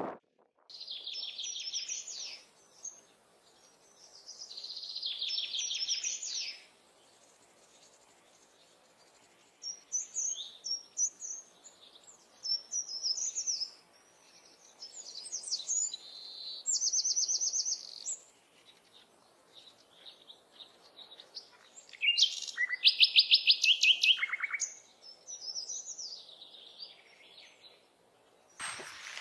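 Small songbirds singing: a string of short, high, rapidly trilled phrases and chirps separated by pauses. The loudest is a fast trill about three quarters of the way through that steps down in pitch.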